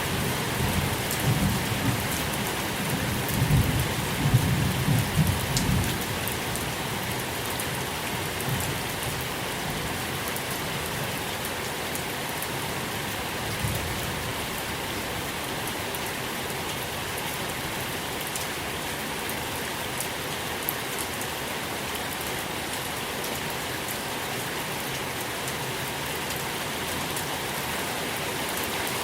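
Steady rain falling, with a low roll of thunder in the first few seconds that dies away about six seconds in.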